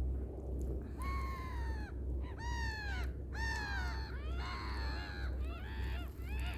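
Birds calling in a series of loud, clear calls, each falling in pitch, about one a second, turning to shorter, quicker calls near the end. A steady low rumble runs underneath.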